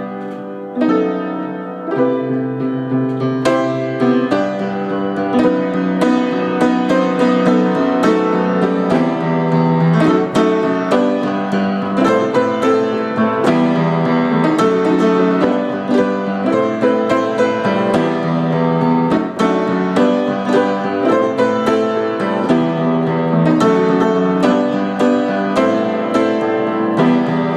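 Instrumental break in an acoustic song: a piano playing chords and a melody line steadily, with no singing.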